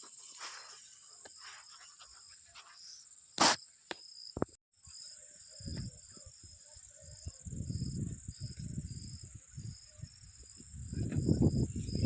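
Crickets or other night insects calling: a steady high drone with a rapid pulsed chirp of about three pulses a second. A single sharp knock sounds about three and a half seconds in, and low rumbling noise comes and goes in the second half, loudest near the end.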